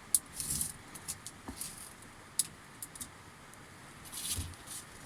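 Light metallic clicks and short rustles of small parts and hand tools being handled while a sheep shearing machine's motor is assembled. There are about half a dozen separate sharp clicks and two brief scraping rustles, one near the start and one near the end.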